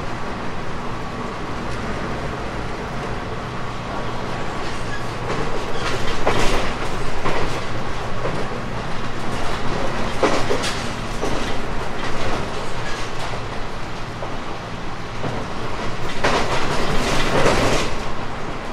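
JR 719 series electric multiple-unit train running along the line: steady wheel-on-rail rumble with clickety-clack over the rail joints. The rattling noise swells louder about six seconds in, again around ten seconds, and for a couple of seconds near the end.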